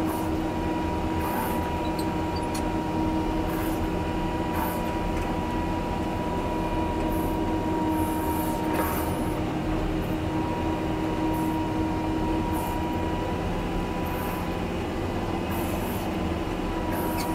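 John Deere 670G motor grader's diesel engine running steadily while grading, heard from inside the cab, with a steady whine over the engine drone.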